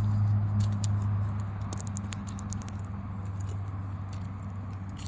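Small electric RC airplane's motor and propeller droning steadily in flight, easing off a little as it is set up for a landing, with scattered light clicks over it.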